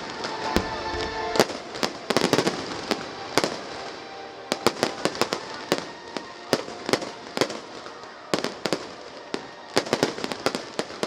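Aerial fireworks bursting: a continuous run of sharp bangs, some single and some in rapid clusters.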